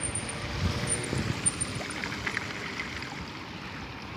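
Steady rush and splash of floodwater over a flooded road, with a few low thumps in the first second or so.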